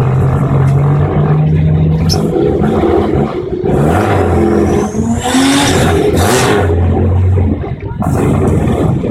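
Loud car engines running and revving, their pitch shifting up and down, with a rising whine about four to five seconds in.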